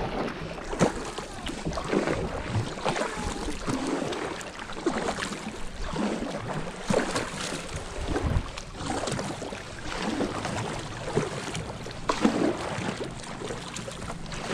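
Kayak paddle strokes splashing in the water, an irregular stroke about every second, with water moving around the hull.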